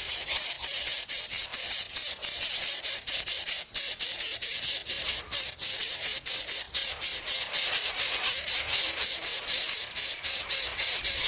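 High-pitched insects buzzing, an even hiss broken by brief dropouts several times a second.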